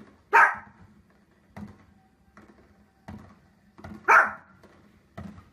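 A dog barking: two loud single barks about four seconds apart, with fainter short sounds in between.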